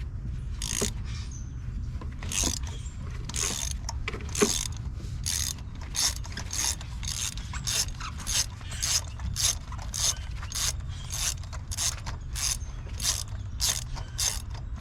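Socket ratchet clicking in short back-and-forth strokes as a loosened spark plug is unscrewed. The strokes are sparse at first, then settle into a quicker even rhythm of about two to three a second.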